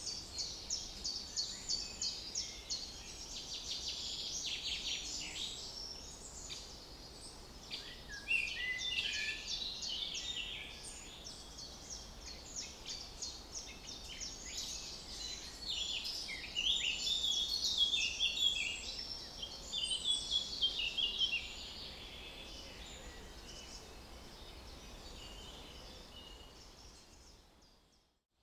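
Several songbirds singing and chirping at once, in rapid high trills and warbled phrases over a faint steady background hum. The sound fades out near the end.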